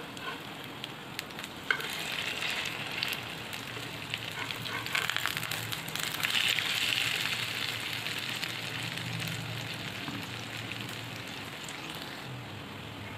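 Potato hash brown patties sizzling in hot oil in a frying pan. The sizzle swells twice as the patties are turned over, with a few sharp clicks of metal tongs against the pan.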